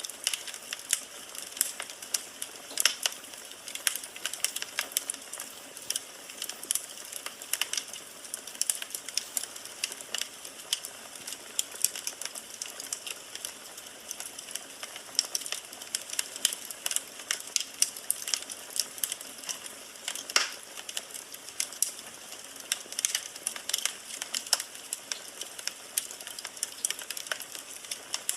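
Firewood burning in a fireplace: steady crackling with irregular sharp pops over a soft hiss, one louder pop about twenty seconds in.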